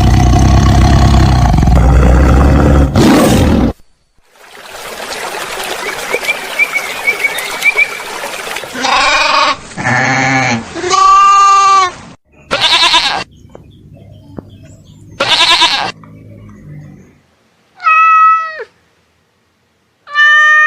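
A string of different animal calls one after another: a loud low sustained call at first, then short pitched cries, the last two dropping in pitch at their ends like cat meows.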